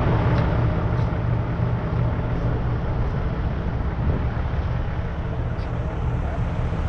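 Harley-Davidson Sportster 1200's air-cooled V-twin engine running steadily under way, a deep even rumble with a rush of wind and road noise over it.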